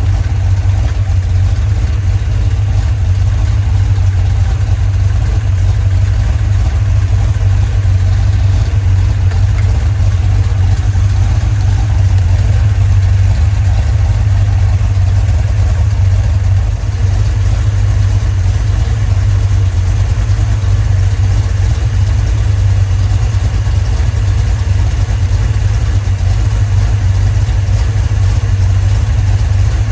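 Freshly rebuilt Dodge 318 cubic-inch V8 idling steadily, showing low manifold vacuum on the gauge. The owner thinks it wants more initial ignition timing for a better idle.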